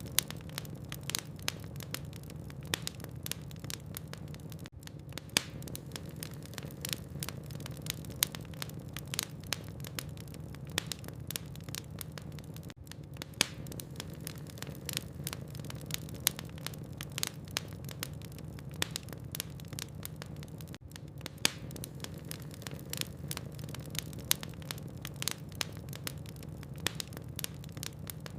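Logs burning in a fireplace, crackling with frequent sharp pops over a steady low hum. The sound dips briefly about every eight seconds.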